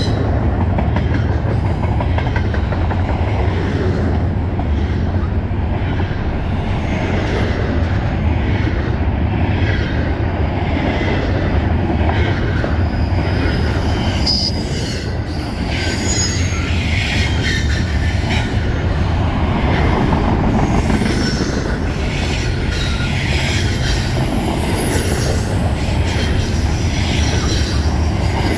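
Intermodal freight train's container cars rolling past: a steady rumble of steel wheels on rail, with scattered short high-pitched wheel squeals and some clickety-clack over rail joints.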